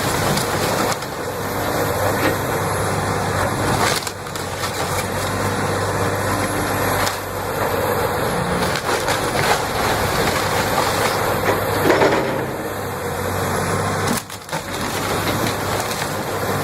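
Heavy truck running under continuous crunching and cracking, like wood or debris being crushed, with abrupt cuts about 4 and 14 seconds in.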